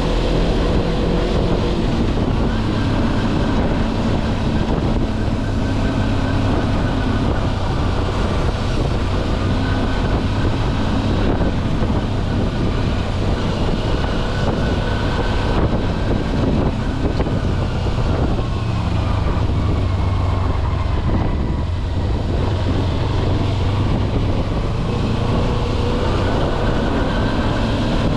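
Kawasaki Versys-X 250's parallel-twin engine running steadily as the motorcycle rides along, its pitch drifting gently, over a constant rush of wind and road noise.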